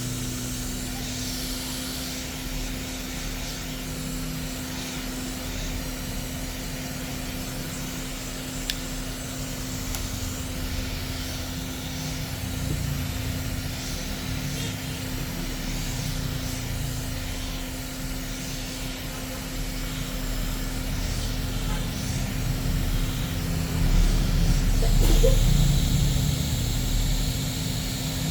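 Steady background hum with a low rumble, the rumble swelling for a couple of seconds near the end.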